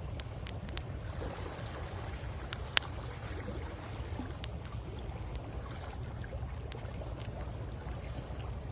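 Wood fire crackling with scattered sharp pops, one much louder pop a little under three seconds in, over a steady low rumble of the sea.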